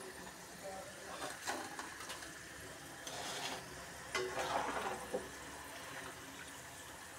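Potato fries deep-frying in hot oil in a steel wok with a steady sizzle. A perforated steel skimmer scrapes and clinks against the pan as the fries are stirred and lifted, loudest about four seconds in.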